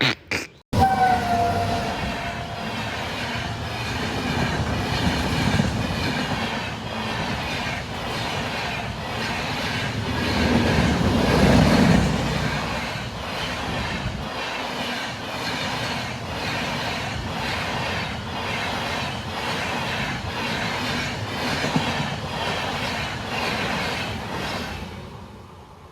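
Balurghat Express passenger train passing a level crossing, its wheels clacking over the rail joints in a steady, even rhythm. The sound is loudest about halfway through and fades away near the end as the train goes by.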